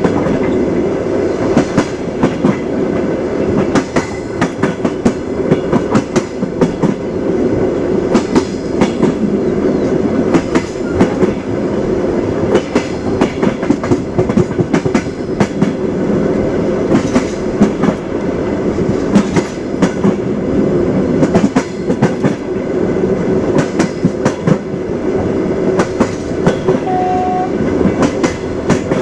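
Train wheels clattering over the rail joints while the train runs on with a steady rumble, the clicks coming thick and irregular. About 27 s in a short steady tone sounds briefly.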